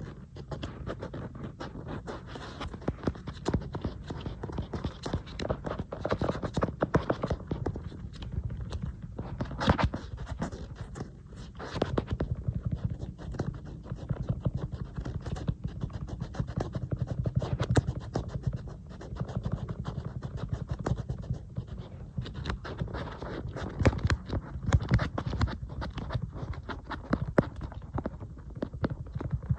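Fingernails tapping and scratching rapidly on an iPad's glass screen and casing, a dense run of quick clicks mixed with scratching.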